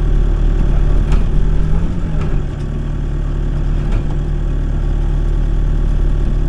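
Backhoe's diesel engine running steadily while digging, with a few sharp knocks about one, two and four seconds in.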